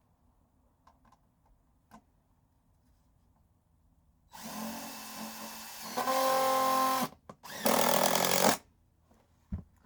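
Power drill driving a screw: a run of about two and a half seconds starting a little over four seconds in, speeding up to a steady whine partway through, then a second, shorter run of about a second.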